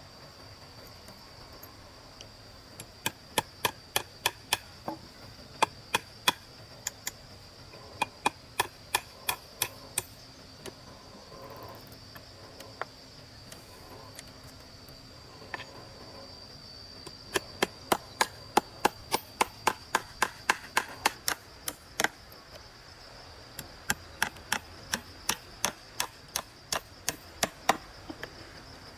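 A tool striking wood in runs of sharp, evenly spaced blows, about two to three a second, with pauses between the runs, as in chopping or hammering during gate building. A steady high insect drone runs underneath.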